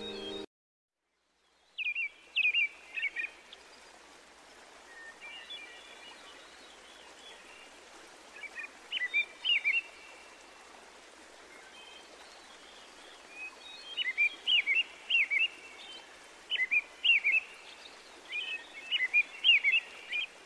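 A songbird singing in short, quick chirping phrases, repeated every few seconds, over a faint steady hiss of outdoor ambience.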